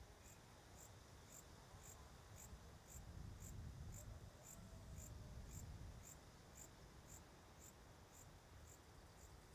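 An insect, likely a cricket, chirping faintly in a steady high-pitched rhythm of about two to three chirps a second. A low rumble swells in the middle.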